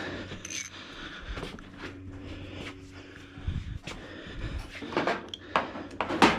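Scattered clicks and knocks of hand tools on metal, with a couple of louder clunks about five seconds in and near the end, over a faint steady hum.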